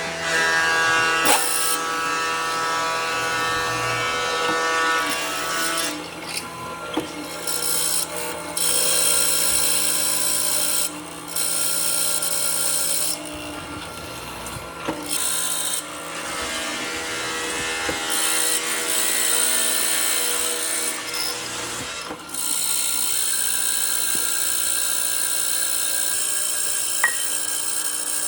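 An electric power tool working wood, running in spells that drop off and start again several times.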